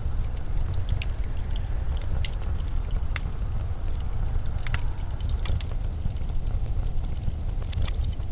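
Blizzard wind as a steady, deep rumbling rush, with scattered sharp crackles over it.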